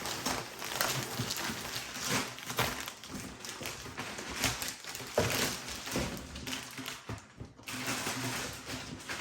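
Unpacking noise: packaging rustling and crinkling, with repeated light knocks as stainless steel exhaust pipes are handled.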